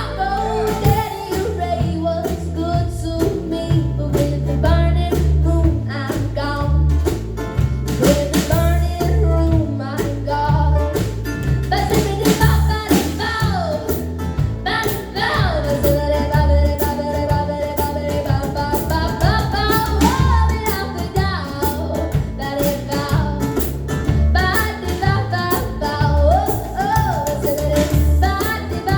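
Live band music: a female lead vocal sung over strummed guitar and a steady bass line.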